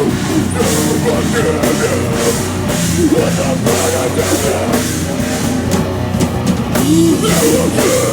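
A heavy rock band playing live: distorted guitars, bass and a pounding drum kit with crashing cymbals, loud throughout.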